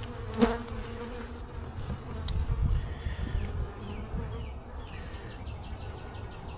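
Honey bees buzzing around an opened hive, a steady hum, with one sharp click about half a second in.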